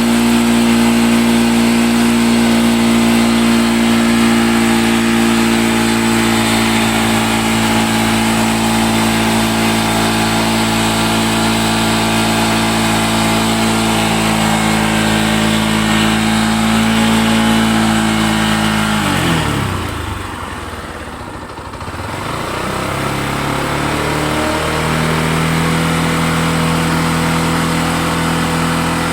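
Bajaj Pulsar NS160 single-cylinder engine held at steady raised revs for about nineteen seconds. The revs then drop away and briefly sag, then rise again and settle at a lower, steady speed. This is the engine that the uploader says has a 'crack sound' and smoking problem.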